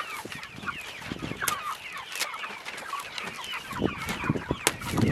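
A flock of chickens clucking and chirping, many calls overlapping, with a few sharp knocks and a short loud rustle near the end.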